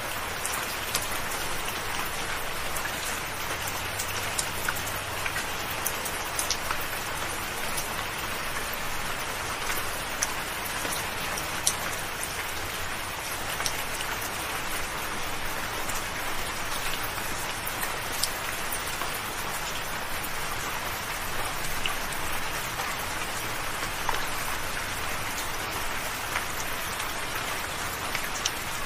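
Soft rain falling steadily, an even hiss with individual drops ticking sharply here and there throughout.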